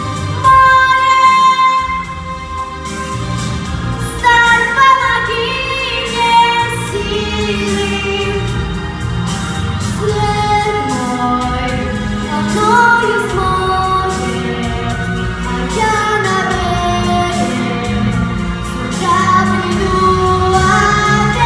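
A song: a solo voice sings a melody with held notes and pitch slides over a backing track with bass and a steady beat.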